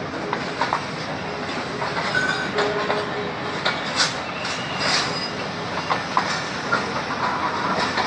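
Pakistan Railways passenger coaches rolling past as the train pulls out of the station, their wheels clacking irregularly over rail joints, with a few short squeals from the wheels.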